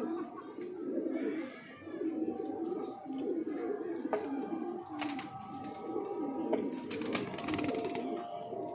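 Domestic pigeons cooing in repeated low warbling phrases about a second long, with a few sharp clicks near the middle and a cluster of them near the end.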